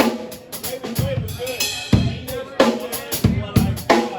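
Drum kit played solo: a busy run of kick drum, snare and tom hits with rimshots, the toms ringing briefly after each stroke, and a brighter cymbal wash about one and a half seconds in.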